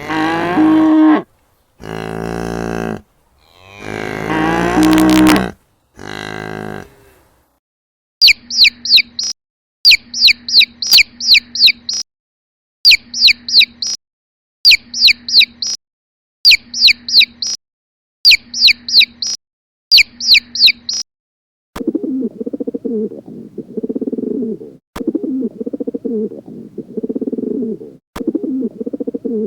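A cow mooing, four long calls over the first seven seconds. Then a bird chirping in short bursts of quick high notes, about one burst a second, and from about two-thirds of the way in a pigeon cooing in low repeated calls.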